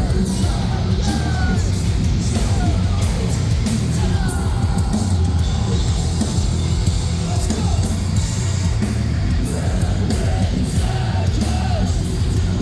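Live metalcore band playing loud, with heavy distorted guitars, bass and drums, and a singer yelling over them.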